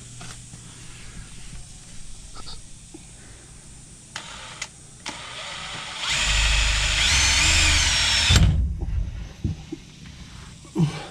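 Power drill with a 2 3/4-inch hole saw running for about two seconds, cutting into the fuel tank. Its pitch rises and then falls before it stops abruptly. A few light clicks and knocks come before it.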